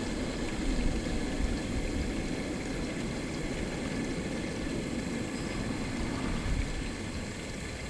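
Airplane passing overhead: a steady low rumble that eases off slightly near the end.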